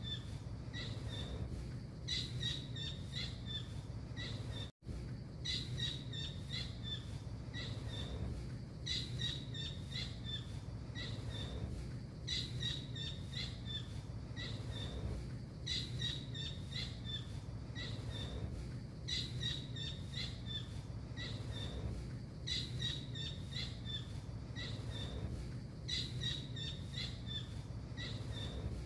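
Blue kingfisher (tengkek biru) calling: a fast run of sharp, high notes in a phrase that repeats about every three and a half seconds, as on a looped masteran recording for training cage birds. A steady low hum lies underneath, and the sound drops out for an instant about five seconds in.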